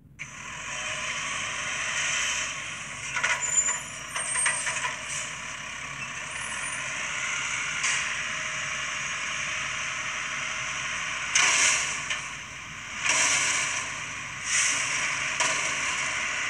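Garbage truck working, with a steady hiss and several short, louder bursts of air hiss in the second half.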